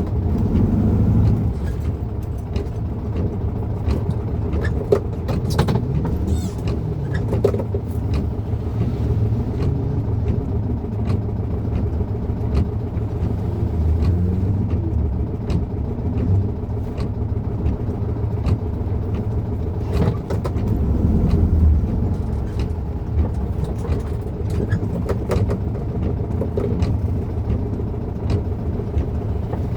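Volkswagen Fusca's air-cooled flat-four engine running on the move, heard from inside the cabin as a steady low rumble that swells louder a few times. Scattered short clicks sound over it.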